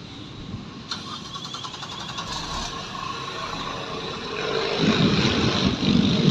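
Big truck's engine running, swelling much louder about three-quarters of the way through as it works harder.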